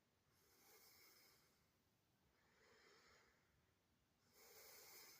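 Near silence with faint breathing close to the microphone: three soft breaths about two seconds apart.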